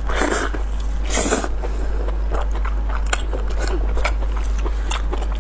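Close-miked mouth sounds of someone chewing soft lamb brain, with wet smacking and irregular short clicks, two louder bursts near the start.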